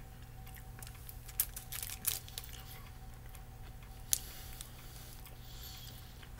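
Faint mouth sounds of someone chewing a sticky almond-and-honey wafer bar: scattered soft clicks and smacks, the clearest about four seconds in, over a faint steady hum.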